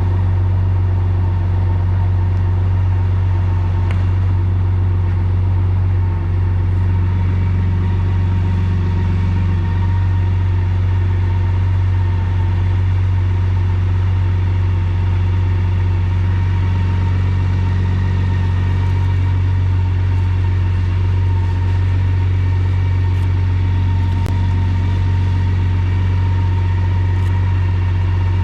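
BMW K1600GTL's inline six-cylinder engine idling steadily through a Hattech aftermarket muffler, with a deep hum and no revving.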